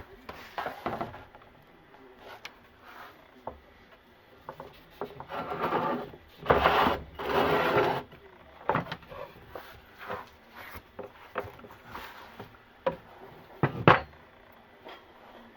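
Wooden bathroom vanity cabinet being worked loose and shifted: scattered knocks and rubs, two longer scrapes about six to eight seconds in, and a sharp knock near the end.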